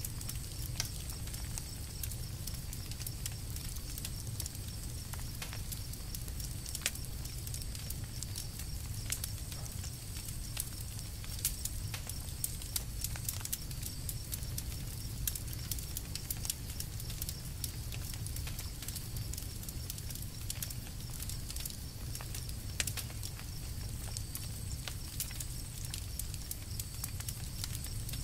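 Campfire crackling: scattered sharp pops and snaps at irregular intervals over a steady low rumble.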